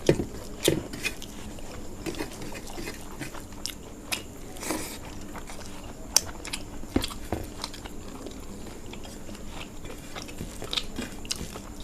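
Close-up chewing and biting of fried food, with scattered crisp crunches and small clicks.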